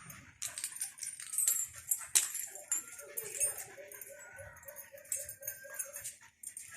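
Excited dog whining in a string of short, evenly spaced whimpers, about three a second, amid scattered clicks and knocks.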